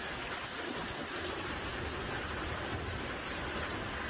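Heavy downpour falling steadily, an even, unbroken hiss.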